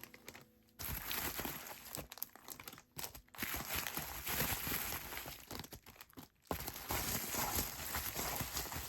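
Paper and packaging crinkling and rustling as stationery items are handled, in bursts with short pauses about half a second in, near three seconds and just after six seconds.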